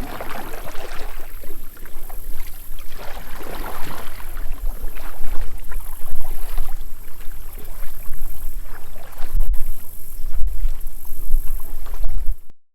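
Kayak paddle strokes swishing and splashing through the water in a repeated rhythm, with wind rumbling on the microphone. The sound cuts off suddenly near the end.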